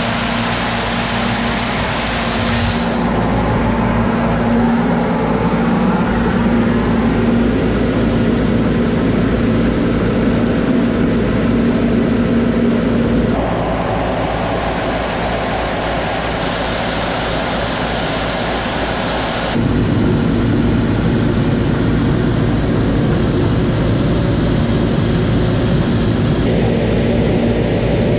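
Combine harvester running steadily in the field, a loud engine and machinery noise with a steady droning hum. The sound changes abruptly about 3, 13 and 19 seconds in, where the footage cuts between clips.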